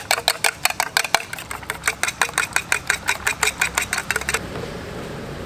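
Rapid, even clicking, about seven clicks a second, that stops about four and a half seconds in and gives way to a steady hiss with a low hum.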